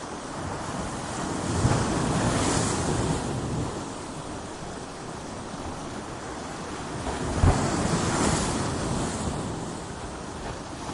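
Ocean waves breaking against coastal rocks: two waves crash, about a second and a half in and again about seven and a half seconds in, each starting with a low thud and washing out, over a steady surf hiss.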